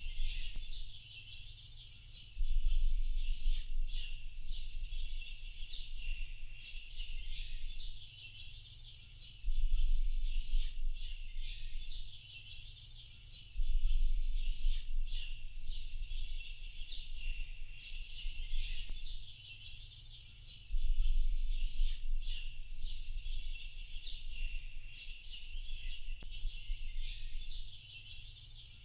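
Dense chorus of many small birds chirping and twittering without a break, high-pitched. A low rumble comes in four times for a few seconds each and is the loudest part.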